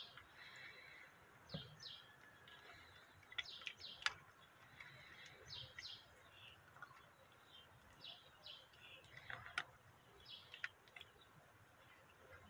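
Faint bird chirps: short, high notes repeated every second or two, with a few sharp clicks in between.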